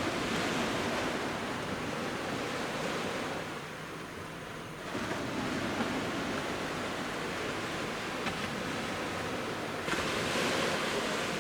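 Waves of the Genkai Sea breaking and washing up the beach: a steady rush of surf that swells at the start, about five seconds in, and again about ten seconds in.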